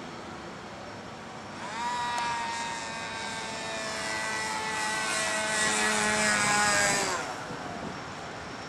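Radio-controlled model airplane passing close by: a high-pitched motor whine comes in sharply about two seconds in, grows louder, slides slowly down in pitch and falls away quickly near seven seconds. Before and after the pass, a fainter steady hum from a more distant model is heard.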